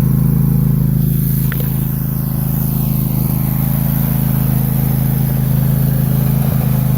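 Lawn tractor engine running steadily with an even, unchanging hum.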